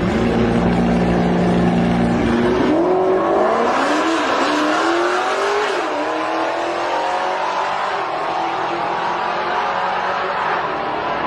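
Car engine holding a steady note for a couple of seconds, then accelerating hard, its pitch climbing and dropping back three or four times as it shifts up through the gears.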